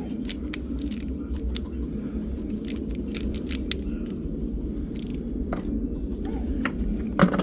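Scattered sharp clicks and light taps as a silicone polishing wheel is changed on a rotary tool, over a steady low hum.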